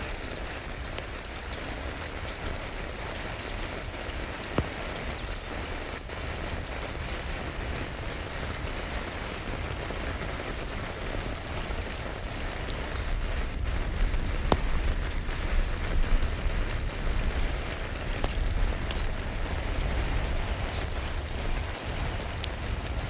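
Steady rain falling, with a low rumble underneath and a few isolated sharp clicks. The rain grows louder and more uneven about two-thirds of the way through.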